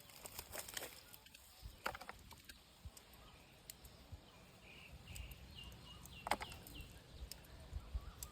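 Faint scattered clicks and rustles, with a small bird chirping a quick run of six or seven high notes in the middle.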